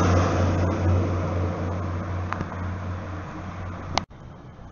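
Class 175 diesel multiple unit running past along the platform, its engine hum and rolling noise steadily fading. About four seconds in, the sound cuts off abruptly with a click, leaving quieter background.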